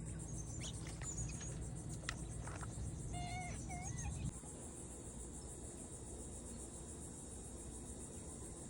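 Insects chirring in a steady, fast, high-pitched trill, with two short chirps a little over three seconds in. A low rumble underneath cuts off about four seconds in.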